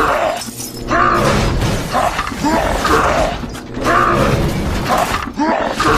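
A mechanical creaking and grinding sound, repeating about once a second.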